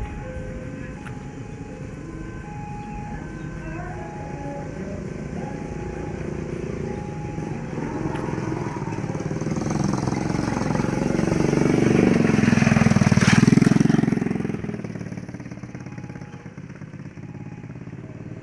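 Diesel-hauled passenger train approaching and passing at speed, led by a CC 203 diesel-electric locomotive. It builds to its loudest a little past the middle, then fades away.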